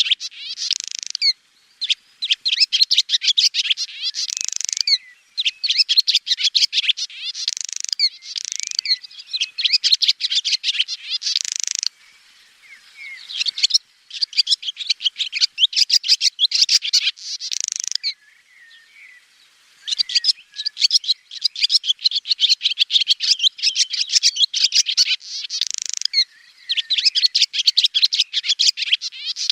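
Swallow twittering: rapid runs of high, chirping notes in phrases a few seconds long, broken by short pauses about 12 and 18 seconds in.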